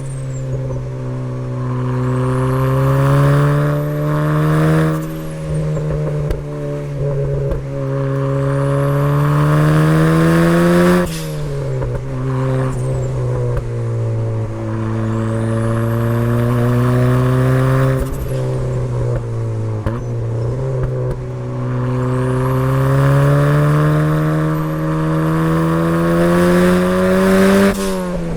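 Turbocharged first-generation Mazda MX-5 (Miata) four-cylinder engine pulling hard under load: the revs climb steadily for several seconds and then drop sharply, about four times, with a high whistle rising and falling over the engine note.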